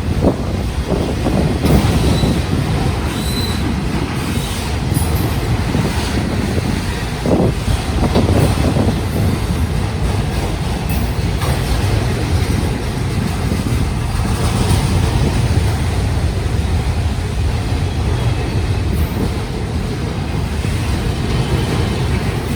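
Union Pacific autorack freight train rolling past: a steady rumble of wheels on rail, with scattered clicks and knocks as the cars pass.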